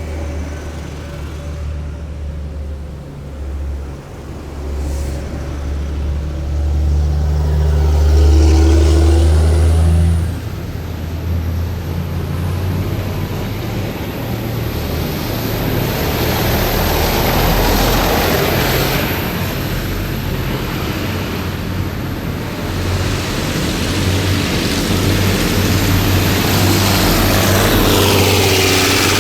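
A column of heavy military vehicles driving past, their engines making a deep, loud rumble. The rumble peaks about a third of the way in and cuts down sharply as that vehicle goes by. More vehicles follow, with a whine that falls in pitch as each one passes.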